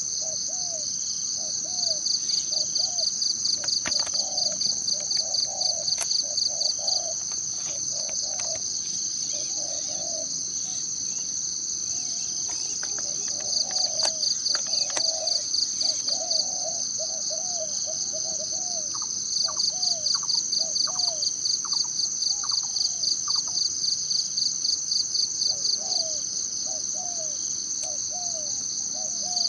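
Forest ambience dominated by a steady high-pitched insect drone. A pulsing insect trill comes and goes in bouts of several seconds, and many short low call notes repeat throughout.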